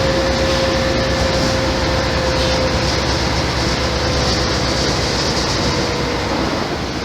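Mercedes-Benz O-500MA Bluetec 5 diesel bus with ZF gearbox running under way: a steady mechanical rumble with a whine that slowly drops in pitch, easing off a little near the end.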